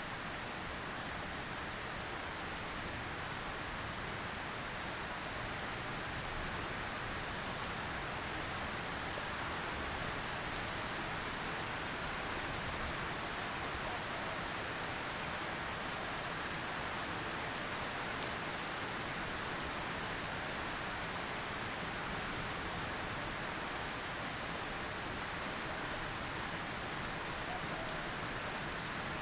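Steady, even rainfall, a constant hiss with a fine patter of drops.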